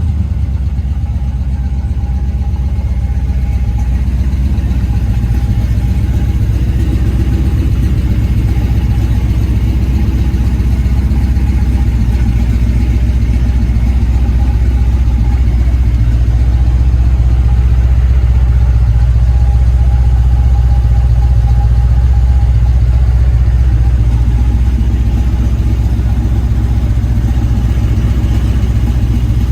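1957 Chevy truck's V8 engine idling steadily, a loud, even low rumble with no revving.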